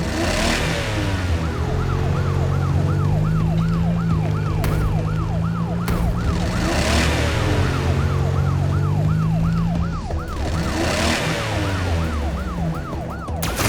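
Cartoon soundtrack with a siren-like high tone warbling up and down about three times a second over held low notes, and three rushing swells along the way.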